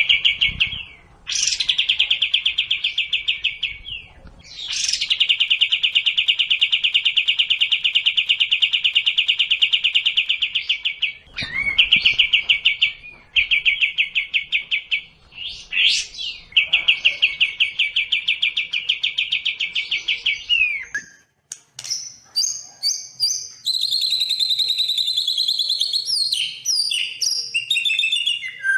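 Songbird singing long, fast trills of several seconds each, separated by short breaks. After a brief silence about 21 seconds in, a more varied song of quick whistles and chips follows.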